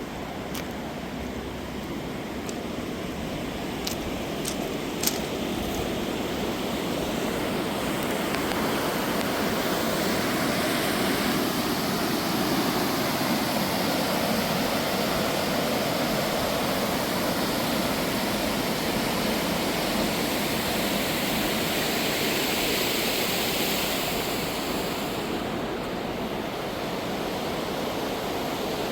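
Truckee River rapids rushing steadily below, growing louder about eight seconds in.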